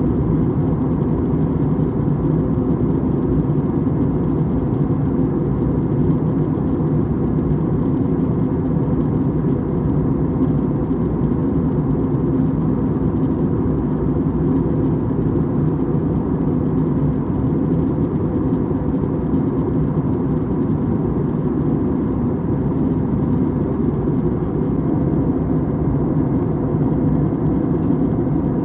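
Steady drone inside the passenger cabin of an Airbus A321neo airliner, a low, even rumble of engines and air with no change in level.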